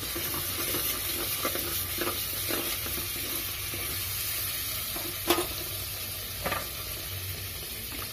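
Kashmiri chilli paste frying in hot oil in a metal pot, sizzling steadily while a metal spoon stirs it. The spoon scrapes and knocks against the pot a few times, the loudest knock about five seconds in.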